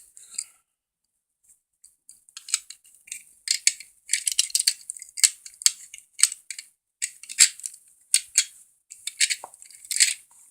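Small plastic and die-cast toy vehicles being handled and rummaged through: irregular bursts of light clicks, rattles and rustling, starting about two seconds in.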